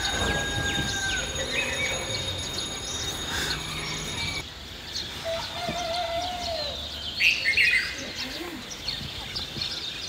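Rural outdoor ambience of several birds chirping and calling, with the loudest burst of chirps about seven seconds in.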